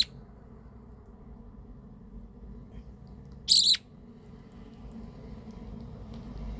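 Hand-reared budgerigar chick giving two short, shrill begging calls while being hand fed, one right at the start and another about three and a half seconds in.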